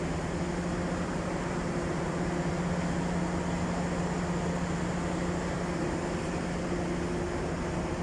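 Steady machinery hum of a passenger train standing at the platform, a low drone over a wash of noise, the drone fading out near the end.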